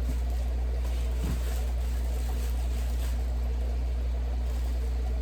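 Steady low hum, with one faint short rustle about a second in.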